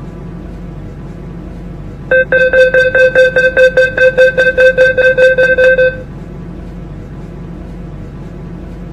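MTR C-Train door-closing warning beeper: a rapid string of identical electronic beeps, about six a second, for about four seconds, signalling that the doors are about to close. A steady low train hum runs underneath.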